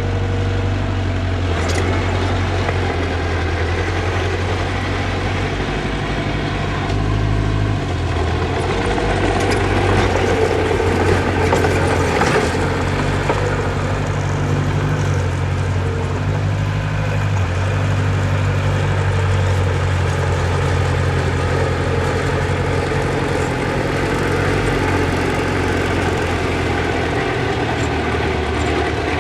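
Diesel engine of earth-moving machinery running steadily at a loud, even level. Its note shifts up and down several times as the load changes, with a louder, rougher stretch in the middle.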